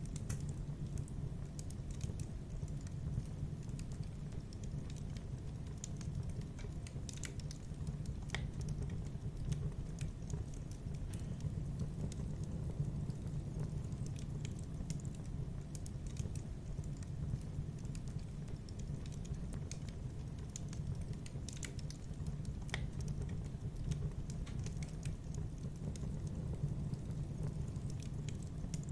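Fireplace fire crackling: scattered sharp snaps and pops over a steady low rumble.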